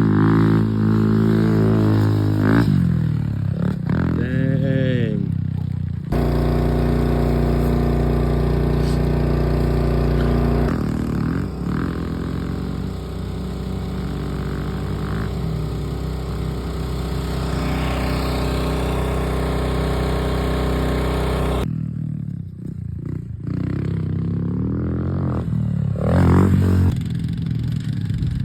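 Pit bike engines revving up and down as the bikes ride past. About six seconds in the sound cuts abruptly to a steadier, deeper engine note, then cuts back to rising and falling revs near the end.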